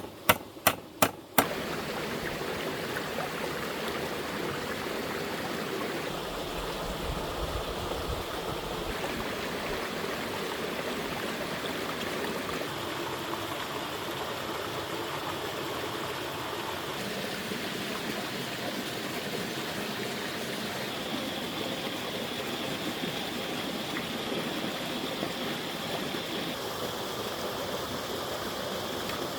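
About four quick sharp knocks in the first second and a half, then a steady rush of running water.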